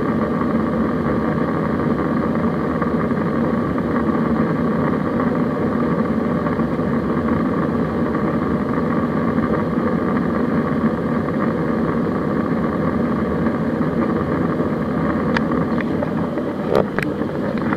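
Steady cabin noise of an Airbus A320 in flight, the engines and airflow making an even hum with a constant low drone and a higher tone above it. A few short clicks or knocks come near the end.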